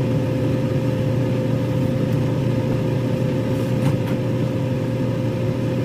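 Microwave oven running: a steady low electrical hum with a fan tone, and a few faint clicks midway.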